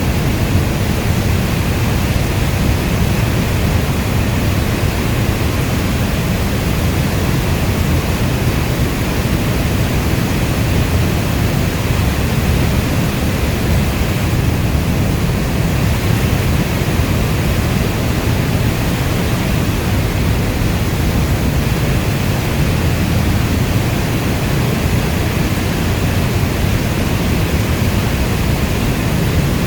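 Steady heavy rainfall, a dense, even rushing noise weighted toward the low end, with no single drops, thunder or other events standing out.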